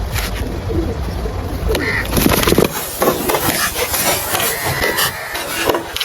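Pigeons cooing, over a low rumble that drops away abruptly about halfway through, with scattered clicks in the second half.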